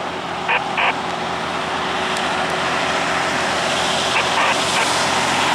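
Heavy-haulage truck engines pulling under load up a hill: a steady engine drone with road noise.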